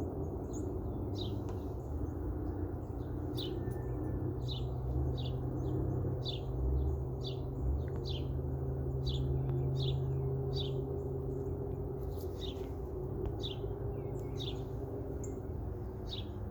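A bird calling over and over with short, falling chirps, about one a second, over a steady low rumble.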